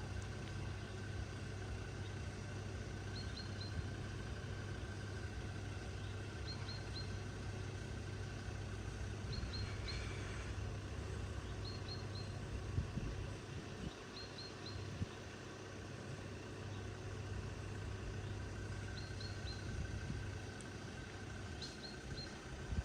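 Quiet rural outdoor ambience: a steady low hum, like a vehicle waiting at the closed crossing, eases off about halfway through. A small bird repeats a short, high three-note chirp every few seconds.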